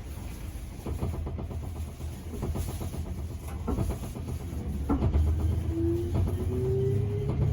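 205 series 500 EMU pulling away from a stop, heard from inside the motor car. A low rumble with scattered knocks comes first, then from about five seconds in the traction motor whine rises steadily in pitch as the train gathers speed.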